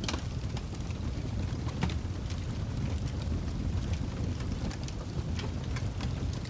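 Wood fire crackling in a fireplace: irregular sharp pops and snaps, the loudest right at the start, over a steady low rumble of the flames.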